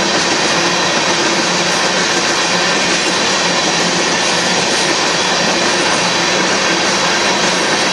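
Freight train of covered hopper cars rolling past: steady wheel-on-rail noise from the passing cars.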